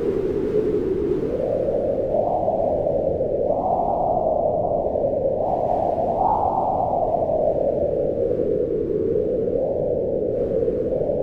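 Wind howling in a low, hollow moan that rises and falls in pitch, swelling higher a few times in gusts, without a break.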